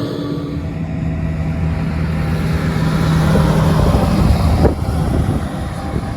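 Heavy diesel harvest machinery running in the field, a steady engine hum that grows louder for about four seconds, then eases off.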